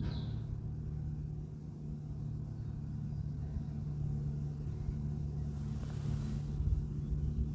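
Steady low engine hum at a constant pitch, with a brief hiss about six seconds in.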